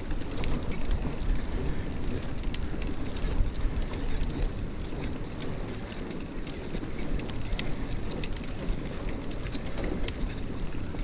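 Wind rumbling on the microphone of a camera riding along on a mountain bike, with a few scattered sharp clicks.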